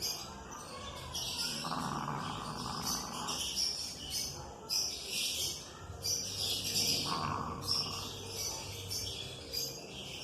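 A bulldog snoring, with two long rasping breaths about two seconds in and again around seven seconds in. Birds chirp continuously throughout.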